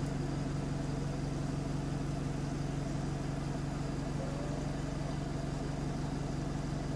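Bus diesel engine idling steadily at a stop, an even low hum; the bus has an exhaust leak.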